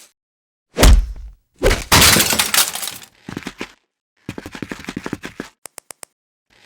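Crash sound effects: a heavy thump, then a long smash of breaking glass, followed by scattered clattering and a few small high tinkles like falling shards.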